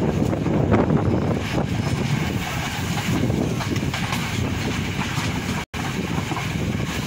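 Passenger train running along the track, heard from an open carriage door: a steady rumble of the wheels on the rails. The sound cuts out completely for a split second about five and a half seconds in.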